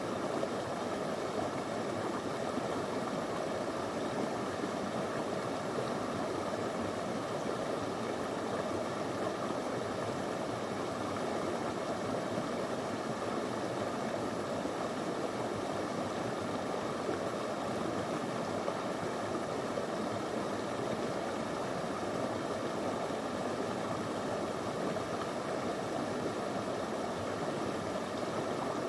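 A small river flowing over stones, with a steady, even rush of water.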